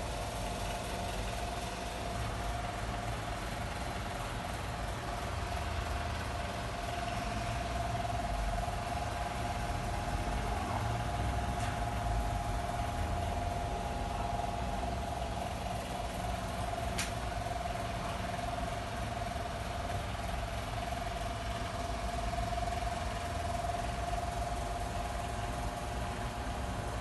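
Steady mechanical hum: a constant mid-pitched tone over a low rumble, with a single sharp click about seventeen seconds in.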